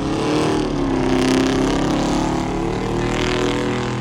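Truck engine revving hard, its pitch dipping and then climbing back up, loudest a little over a second in.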